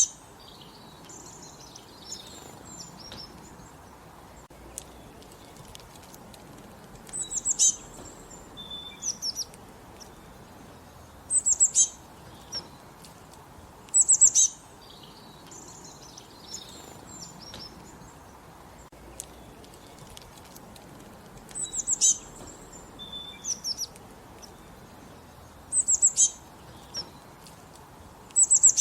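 A songbird singing a short, high-pitched phrase over and over, six times a few seconds apart, with softer chirps in between.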